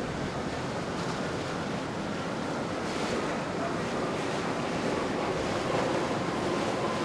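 Steady rushing of wind on the microphone and water, with a faint steady hum.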